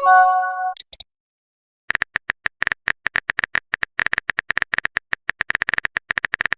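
Chat-app message sound effect: a short chord of steady tones at the start. After about a second's pause, a rapid run of typing clicks, several per second, goes on for the rest of the time as a new message is typed out.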